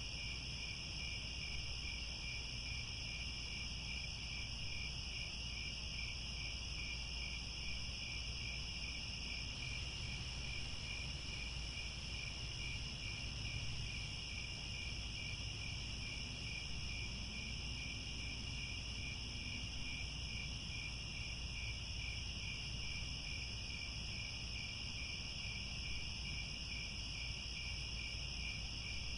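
Crickets chirping in a steady, dense chorus: a high continuous trill together with a lower chirp pulsing at a regular rate, over a faint low rumble.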